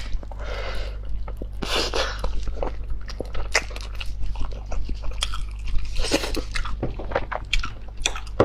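A person eating close to the microphone: chewing and biting, with many short wet mouth clicks and a few longer noisy smacks.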